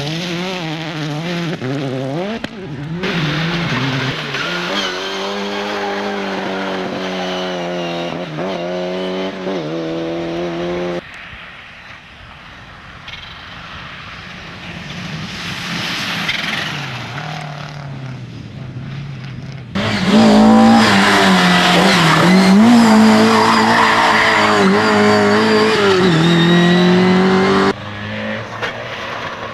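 Rally car engines at high revs, the pitch rising and falling with gear changes, over several short clips joined by hard cuts. The loudest stretch runs from about two-thirds of the way through to near the end.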